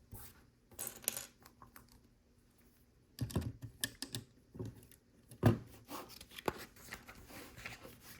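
Plastic LEGO pieces clicking and clattering as they are handled and pressed together: a string of irregular sharp clicks, the loudest about five and a half seconds in.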